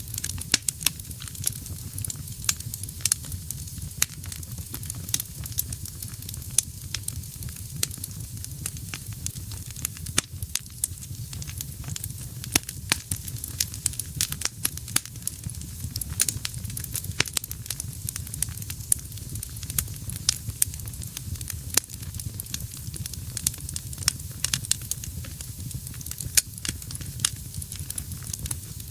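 Wood fire burning in a fireplace: irregular sharp crackles and pops throughout, over a steady low rumble of the flames.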